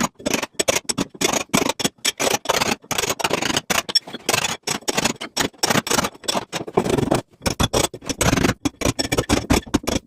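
Masonry being chipped and scraped out by hand to cut a recess for an electrical box: quick, irregular knocks and scrapes, several a second, with short pauses.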